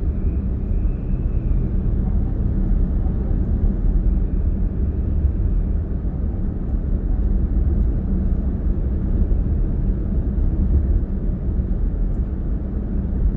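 Steady low rumble of a car cruising on an expressway, heard from inside the cabin: road and engine noise.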